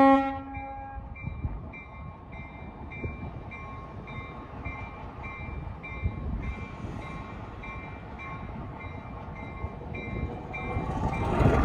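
A train horn blast cuts off right at the start, then a railroad crossing bell dings steadily, a few strokes a second, over the rumble of a passing train that grows louder near the end.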